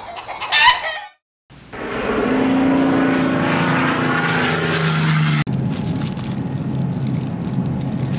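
A rooster crowing, cut off about a second in; after a short gap, a loud steady rushing sound with a low drone for about four seconds. From about five and a half seconds, supermarket background: a steady refrigerated-case hum with the crinkle of plastic-wrapped whole chickens being handled.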